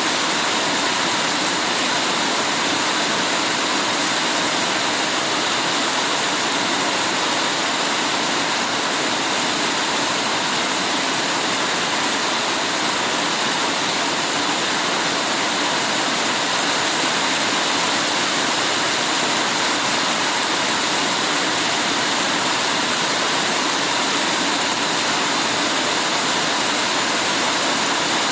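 Heavy rain falling in a dense, steady hiss with no separate drops or breaks.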